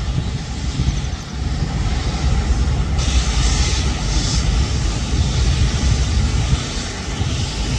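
Freight train hauled by twin WCAG-1 electric locomotives crossing a steel girder railway bridge: a steady rumble with a hiss that brightens about three seconds in.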